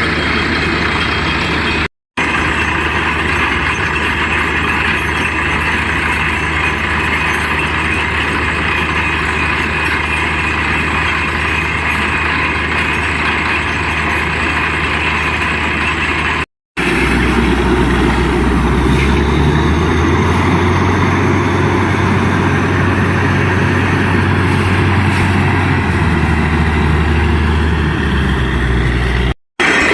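Heavy engine of a borewell drilling rig truck running steadily under a broad hissing rush. It comes in three clips joined by brief cuts, with the engine's low hum stronger in the last one.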